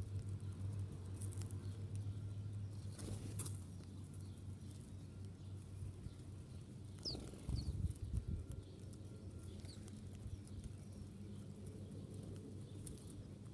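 Small birds giving a few short high chirps about halfway through, with light pattering and scattered clicks, over a steady low hum.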